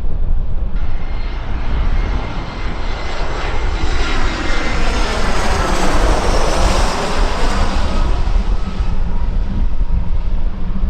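Jet airliner passing close by: the engine noise swells to a peak about six to seven seconds in and then fades, with a thin steady whine over the noise. Wind rumbles on the microphone throughout.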